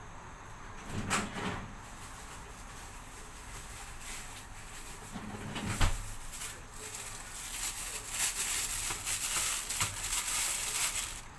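A pot of soup on the boil: two knocks against the pot, then a loud hiss of boiling from about seven seconds in that cuts off suddenly near the end.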